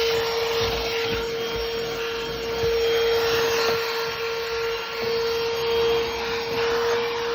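Stihl SEA 20 cordless handheld vacuum running: a steady motor whine over the rush of air, its loudness rising and falling a little as it is worked over a surface.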